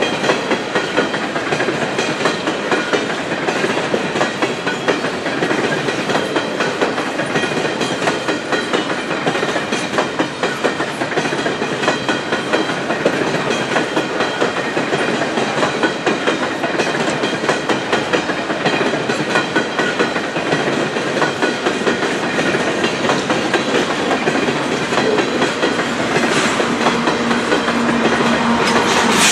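Empty steel coal hopper cars of a long freight train rolling past, their wheels clacking rhythmically over the rail joints with a steady rattle. Near the end the sound grows louder as the rear locomotive, a Canadian Pacific GE AC4400CW diesel, comes level.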